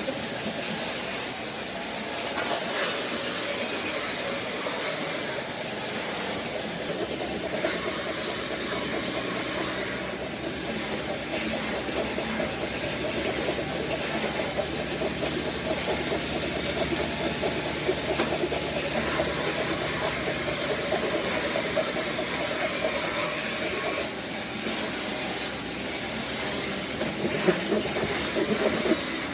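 A woodworking power tool running with a steady hiss, a high whine coming in and out for a few seconds at a time.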